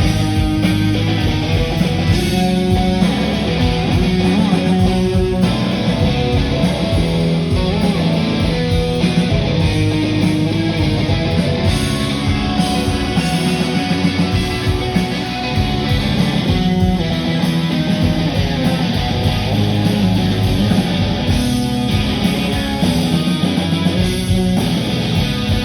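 Loud live rock band in full flow, with electric guitar strongly to the fore over bass and drums.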